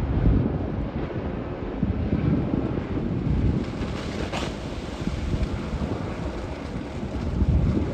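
Wind buffeting the microphone in gusts, with one brief sharp crackle about halfway through.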